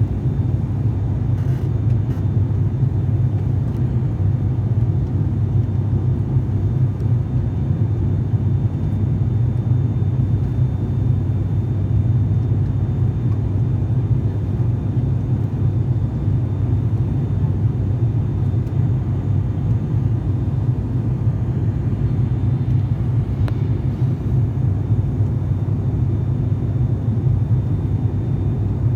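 Steady drone of a turboprop airliner's engines heard from inside the passenger cabin in flight: a low, even hum with a faint high whine above it.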